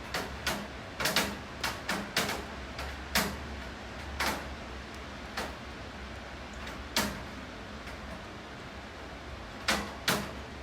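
Rain: heavy drops tapping irregularly on a hard surface, about a dozen sharp taps at uneven intervals, the loudest about three seconds in, at seven seconds and twice near the end, over a steady low hiss and hum.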